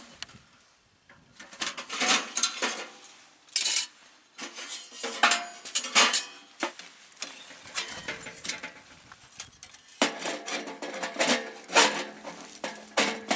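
Metal cookware and utensils clinking and scraping in a run of short knocks and clatters while cooking, with a steadier ringing layer under the clinks in the last few seconds.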